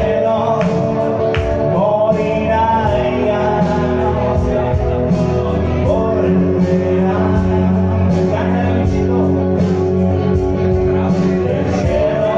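Live rock song being performed: a band playing with a steady drum beat and a voice singing.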